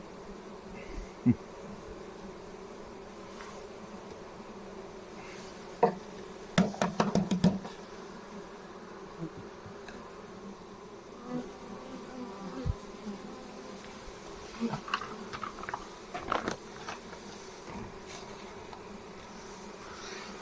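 Honeybees buzzing around an open hive in a steady hum, with sharp clicks and knocks from hive parts being handled: a quick run of knocks about seven seconds in and a scatter more a few seconds before the end.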